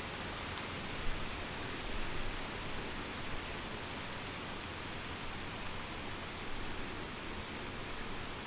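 Heavy rain falling steadily, an even, continuous hiss of many drops.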